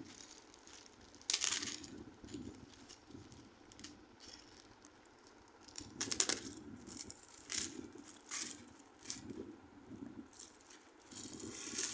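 Packaging being handled while a box is unpacked: irregular rustling and crinkling, with sharper scrapes or knocks about one and a half seconds and six seconds in.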